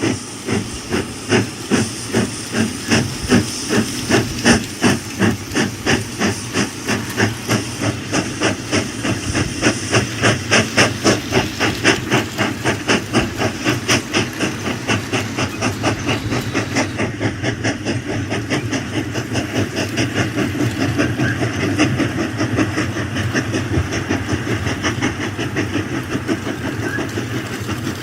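Toy steam locomotive's chuffing sound effect: rhythmic steam puffs that start slow, at about two a second, and speed up into a fast, steady chug.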